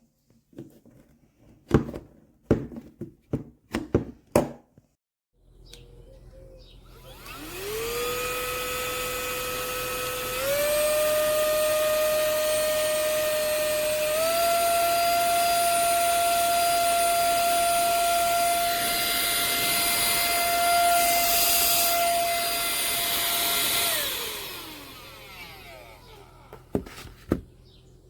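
Tiazhan cordless handheld vacuum cleaner's motor spinning up with a rising whine. Its pitch steps up twice, it runs steadily, then it winds down with a falling whine. Sharp clicks and handling knocks come before it starts and again near the end.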